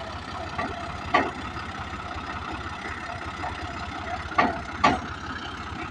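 Tractor diesel engine idling steadily, with three sharp knocks: one about a second in and two close together near the end.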